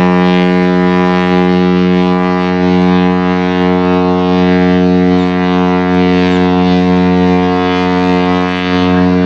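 Cruise ship's horn sounding one long, steady blast, a deep tone with many overtones, as the ship sets sail.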